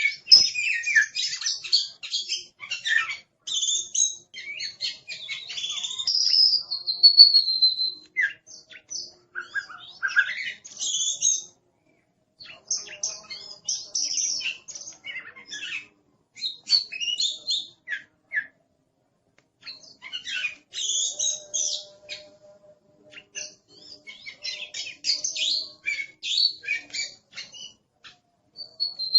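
Oriental magpie-robin singing a loud, varied song of quick chirps and clear whistles in phrases, broken by a couple of short pauses. It is the energetic song of a fired-up (galak) bird, the kind of recording used as a 'master' for songbirds to learn from.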